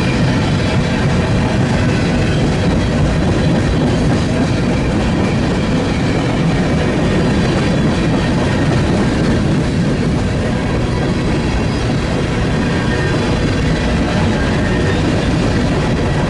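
A train rolling past close by: steady, loud steel-wheel and rail noise with a deep rumble and faint high squeal from the wheels.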